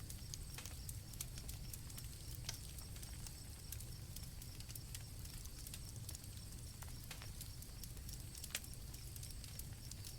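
Campfire crackling, with irregular sharp pops over a low steady rumble, and crickets trilling steadily at a high pitch. The loudest pop comes about eight and a half seconds in.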